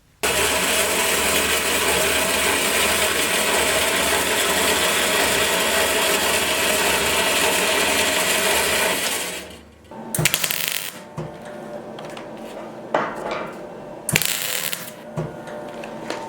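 A power tool starts abruptly and runs steadily for about nine seconds, then winds down. After it, scattered clinks, knocks and two short scrapes of work being handled.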